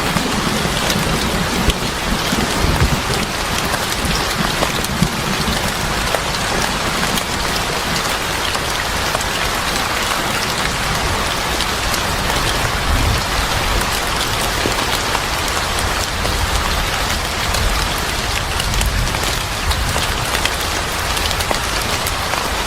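Steady rain falling on a surface, an even hiss flecked with many small sharp ticks of drops, over a low rumble.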